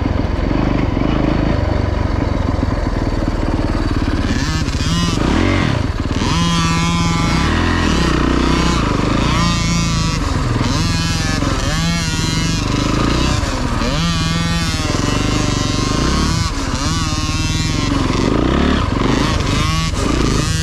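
Dirt bike engine revving up and falling back again and again as it is ridden around a motocross track, heard close up from the rider's helmet camera.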